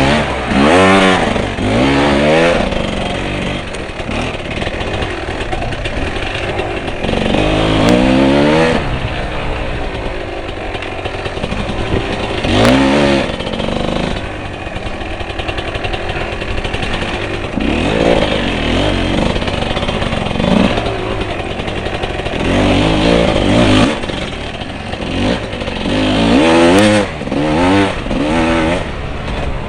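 Off-road motorcycle engine revving in repeated bursts, its pitch sweeping up and falling back several times, with steadier running between the bursts.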